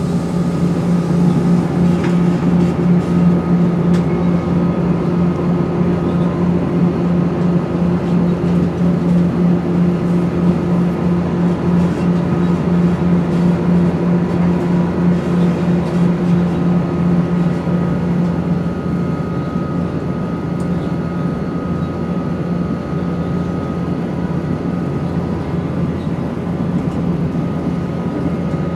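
Interior sound of a Class 170 Turbostar diesel multiple unit under way: steady running noise of the underfloor MTU diesel engine and drive, with a steady whine. The whine's source is not known even to the uploader. The sound eases somewhat about two-thirds of the way through.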